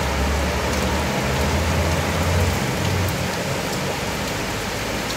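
Heavy rain pouring onto a flooded road, a steady dense hiss. Trucks driving through the water add a low rumble for the first three seconds or so, which then fades.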